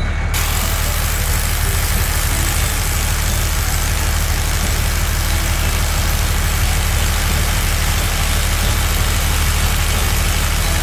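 Heavy vehicle engine idling: a steady low rumble under a constant hiss.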